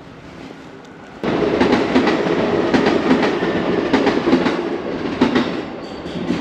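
A train passing close by, its wheels clacking over the rail joints; the noise begins abruptly about a second in and eases off near the end.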